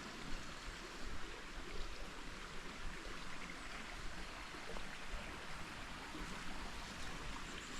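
Creek water flowing steadily over rocks, a continuous rushing hiss.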